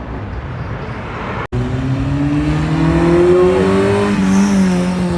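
A car engine accelerating as the car passes, its pitch climbing steadily for about two and a half seconds and then levelling off, after a brief break in the sound about a second and a half in.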